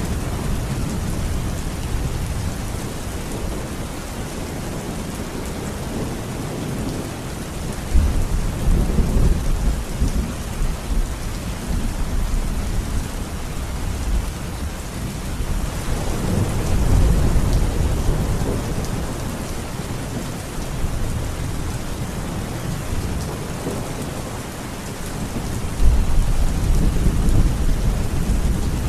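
Steady rain falling, with rolling thunder rumbling low beneath it three times: sharply about eight seconds in, swelling more gradually in the middle, and sharply again near the end.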